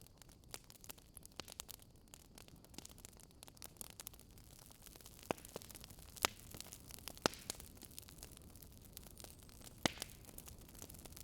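Wood fire crackling: irregular small pops and snaps over a faint steady hiss, with a few sharper, louder pops in the second half.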